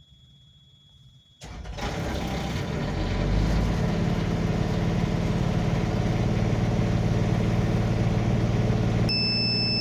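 Refrigerated truck's engine starting about a second and a half in, building up for a couple of seconds and then running steadily. Near the end a steady high-pitched alarm tone comes on: the refrigeration unit signalling its 'fuse bad' fault.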